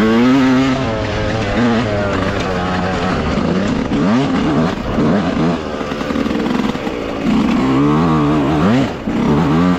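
Dirt bike engine running under way, its pitch rising and falling as the throttle is opened and closed several times.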